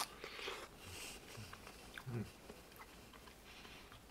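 Faint wet biting and chewing of ripe Monstera deliciosa fruit pulp being eaten off the cob, with a sharp click at the start and scattered small mouth clicks.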